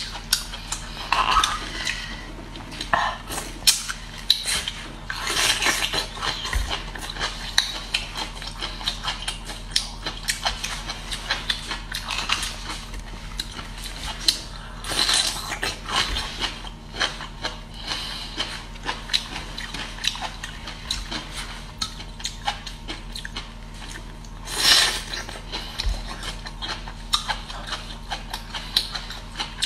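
Biting and chewing of pickled bamboo shoots, a dense run of crisp, wet crunches and clicks with a few louder bites.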